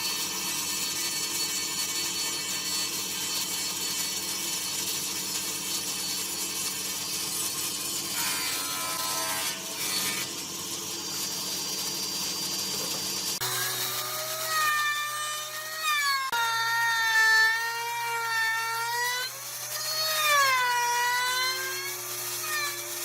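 A woodworking power tool running and cutting wood. It runs steadily at first, then from about halfway its pitch wavers up and down as the cut loads it.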